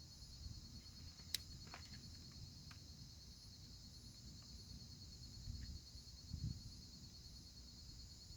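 Steady high-pitched trilling chorus of night insects, with a sharp click about a second in and a few faint clicks just after it, over low handling rumble.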